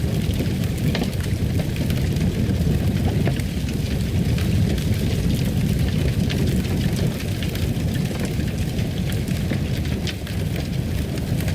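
Wood fire crackling in a fireplace: a steady low rumble of burning with scattered sharp pops and crackles throughout.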